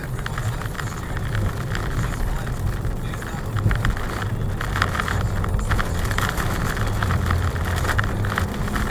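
Car interior noise while driving, picked up by a dashcam's built-in microphone: a steady low engine and road drone with a scatter of faint crackling ticks.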